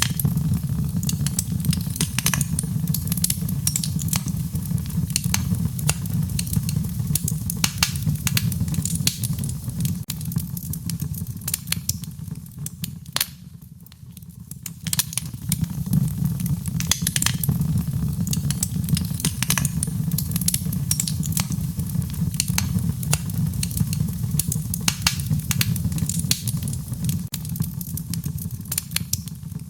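Wood fire burning, with frequent sharp crackles and pops over a steady low rumble of flame. It briefly goes quieter about halfway through.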